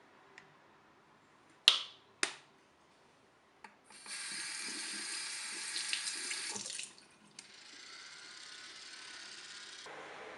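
Two sharp clicks, then a water tap running into a sink for about three seconds and shutting off, followed by a quieter, steady flow of water.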